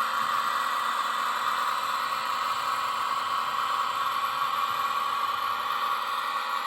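Digital diesel-engine sound from a Zimo sound decoder in a Roco model of an ÖBB 2067 diesel shunter, played through the model's small speaker and running steadily.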